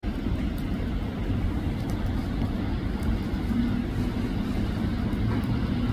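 PKP EP09 electric locomotive running, a steady low rumble with a faint hum in it.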